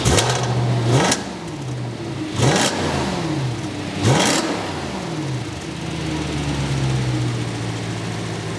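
Audi RS5's naturally aspirated V8 through a freshly hand-built custom X-pipe exhaust, blipped four times in quick succession, each rev rising sharply and falling back, then settling into a steady idle.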